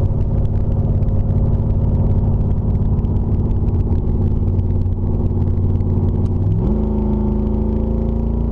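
350 small-block Chevy V8 with headers and no mufflers, heard from inside the car while driving. The exhaust note holds steady, then climbs quickly in pitch about two-thirds of the way in and stays at the higher pitch.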